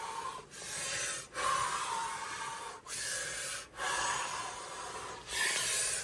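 A man doing Wim Hof power breathing: loud, forceful breaths in and out through the mouth, one after another, each lasting about a second with only brief gaps between them. This is the rapid over-breathing phase that comes before the breath hold.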